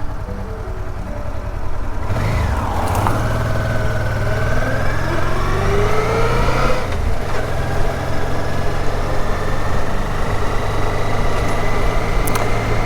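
Honda Deauville's V-twin engine pulling away, its pitch rising for a few seconds, dropping at a gear change about seven seconds in, then running steadily at cruising speed. A low wind rumble on the microphone runs under it.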